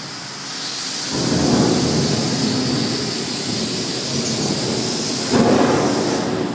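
Thunder rumbling: a long roll that builds about a second in, then a second, stronger peak near the end.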